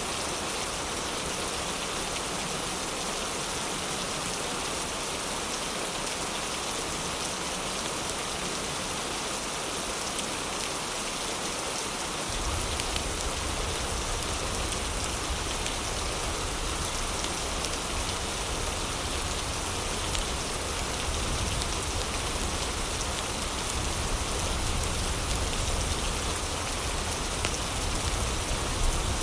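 Heavy rain falling steadily, an even hiss of drops. About twelve seconds in, a low rumble comes in suddenly beneath it and holds.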